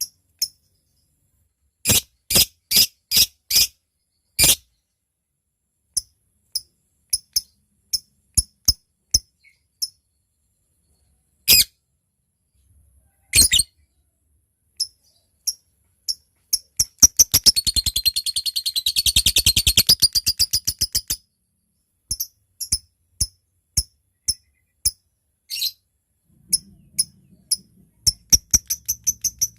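Lovebird calling: sharp, separate ticking chips (the 'ngetik'), some in quick runs of four or five, then about 17 s in a long, fast chattering trill (the 'ngekek') lasting about four seconds, then ticking again.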